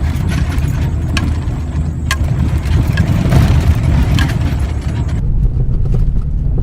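Car driving over rough, potholed dirt road: a steady low rumble with several sharp knocks from the suspension. The knocking is that of worn-out shock absorbers that no longer work.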